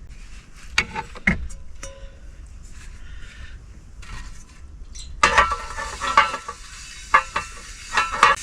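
Dishes being washed in a small sink: a nonstick pan and utensils clink and knock a few times, then from about five seconds in water starts running, with more clatter of the pan and utensils.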